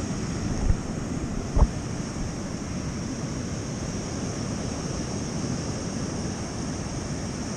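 Steady outdoor rush of wind and surf, with two low thumps of wind or handling on the microphone about a second in.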